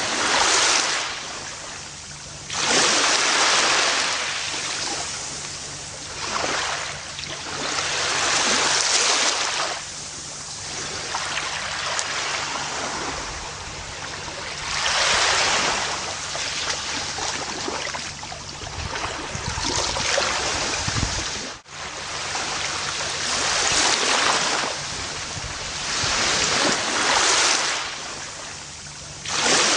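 Gentle ocean waves breaking and washing up a beach, each surge of surf swelling and falling away every few seconds. A brief dropout in the sound comes about two-thirds of the way through.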